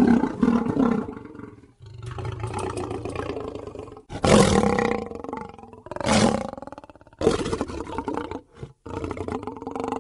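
Lion roaring: four loud roars, at the start and about four, six and seven seconds in, with lower growling between them. The sound breaks off abruptly a few times, as where separate takes are joined.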